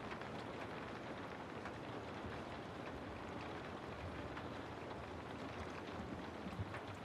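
Steady rain falling through forest trees, an even hiss with scattered individual drops ticking.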